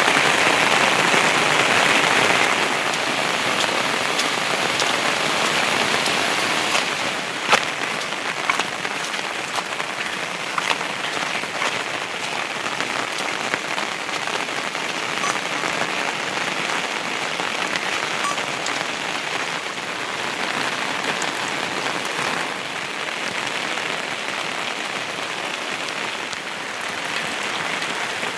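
Heavy rain falling steadily, with a few sharp taps of single drops striking close by, the clearest about seven and a half seconds in.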